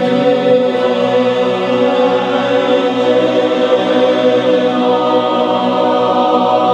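A choir singing held chords in a vocal warm-up, with the voices moving through a counted scale exercise.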